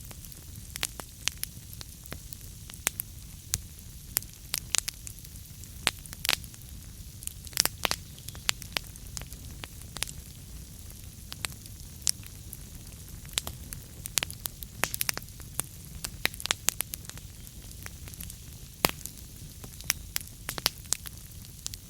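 Wood logs burning in a fireplace: irregular sharp crackles and pops, several close together around the middle and a loud single pop near the end, over a steady low rumble of the flames.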